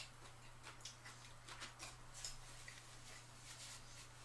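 Faint mouth sounds of a person chewing French fries: soft, irregular clicks and smacks, with a sharper click right at the start, over a low steady hum.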